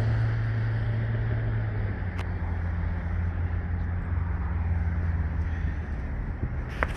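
A motor vehicle's engine running steadily with a low hum, with a few brief faint ticks.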